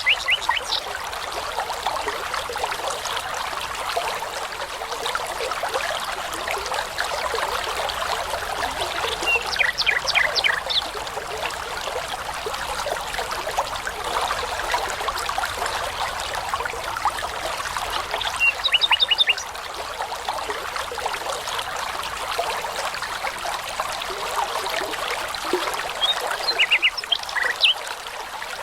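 Babbling brook running steadily, with a songbird giving short phrases of rapid repeated high notes four times.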